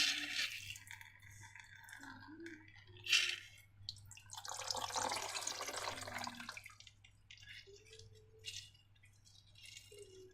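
Wet, liquid slime-making sounds: dripping and pouring, with a sharp tap at the start and another about three seconds in, and a longer pour about two seconds long from about four seconds in.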